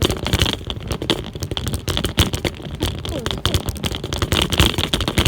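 Bicycle in motion, rattling with a dense, irregular crackle over a steady low rumble.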